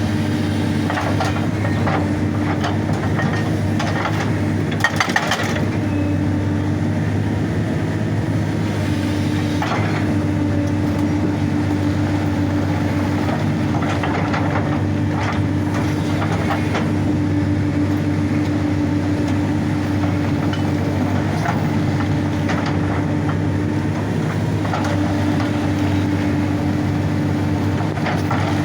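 Excavator's diesel engine running steadily, with scattered knocks and clatter coming and going over it.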